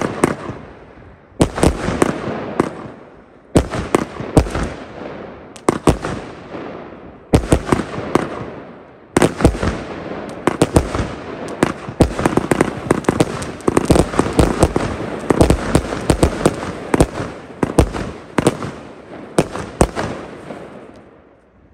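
A Black Boxx Erzengel Diavolo firework compound cake (25 and 30 mm shots) firing comets that burst overhead in a string of bangs. At first it fires in separate salvos every second or two. From about halfway it becomes a dense, continuous barrage, which dies away near the end.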